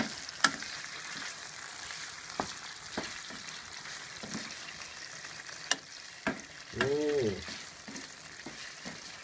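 Chicken and vegetable pieces sizzling steadily in hot oil in a frying pan, with sharp knocks and scrapes of a wooden spoon against the pan as they are stirred. A brief hum-like voice sound comes about seven seconds in.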